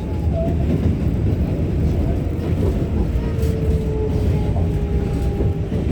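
New York City 7 subway train running between stations, heard from inside the car: a steady low rumble of wheels on the track, with a thin motor whine that comes in about halfway and falls slightly in pitch.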